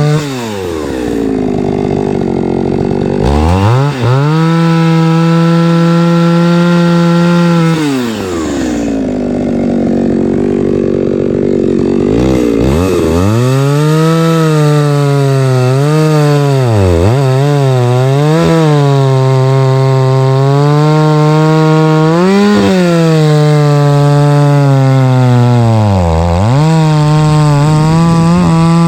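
Two-stroke chainsaw running at high revs and cutting logs for firewood. Its pitch sags as the chain bites into the wood and climbs back when it comes free, with two long cuts in the first half and several brief dips afterwards.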